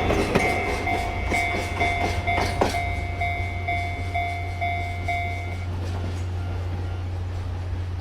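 Chichibu Railway limestone freight train's hopper wagons rolling past, their wheels clicking over rail joints, the clicks thinning out as the train moves on. An alarm bell rings about twice a second and stops about six seconds in.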